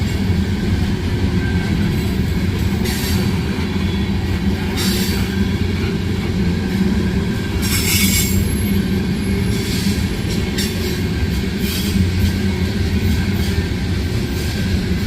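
Freight train cars rolling past: a steady low rumble, broken by several brief high-pitched screeches from the wheels on the rail.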